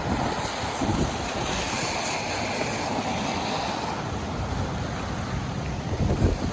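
Steady rushing of floodwater, with wind buffeting the microphone in low gusts about a second in and again near the end.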